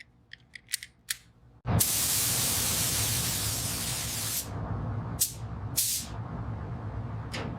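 Hissing spray: a few light clicks, then one long spray of about three seconds followed by three short bursts, over a steady low hum.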